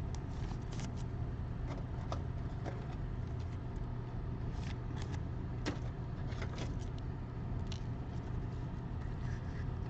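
Trading cards being handled, with scattered light clicks and slides over a steady low hum.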